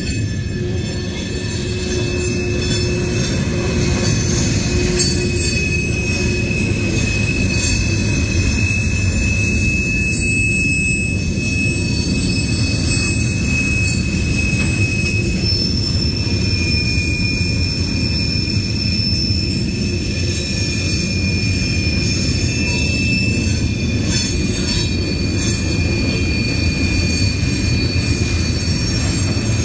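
Freight train of tank cars and covered hoppers rolling past, a steady rumble of steel wheels on rail with a high-pitched wheel squeal that drops slightly in pitch about halfway through.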